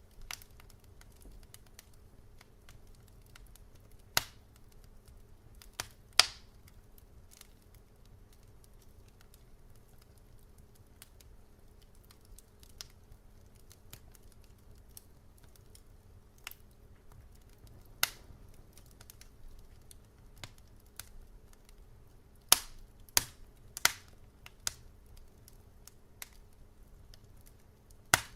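Wood fire crackling in a fireplace: scattered sharp pops and snaps, a handful of louder ones and many faint ticks, over a low steady hiss with a faint hum.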